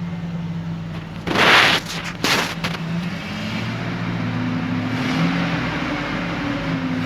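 Chevrolet Silverado 4.8 V8 engine running just after start-up, its speed rising about halfway through and holding higher. Two short, loud bursts of hiss come early on, louder than the engine.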